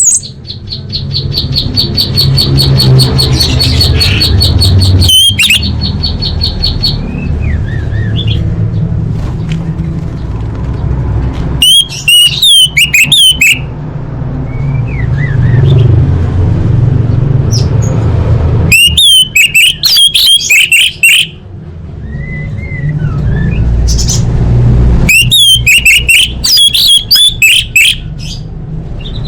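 Female orange-headed thrush calling: a rapid trill of evenly repeated high notes lasting several seconds, then three bursts of quick, warbling up-and-down phrases, over a steady low hum. A lure call of the kind played to get silent male orange-headed thrushes singing.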